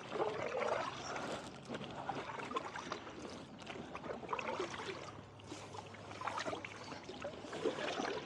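Kayak paddles dipping and pulling through lake water, with water trickling off the blades and splashing in irregular strokes.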